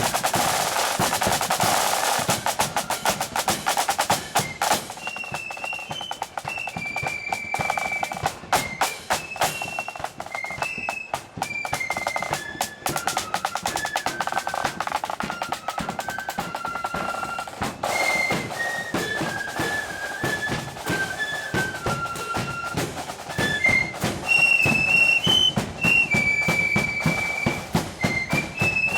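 Marching flute band playing a march: flutes carry a high melody over rapid snare drum rolls and a steady bass drum beat.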